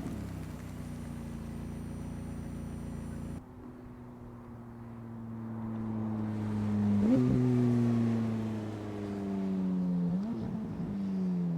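McLaren 570S twin-turbo V8 exhaust note. It first holds a steady pitch, then after an abrupt change the revs fall off slowly and are blipped sharply up twice, about three seconds apart, as the car downshifts while slowing.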